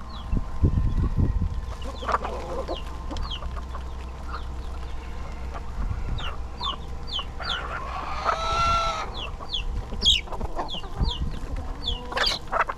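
Chickens in a flock: a chick peeping over and over in short, high, falling peeps, with a rooster crowing once about eight seconds in.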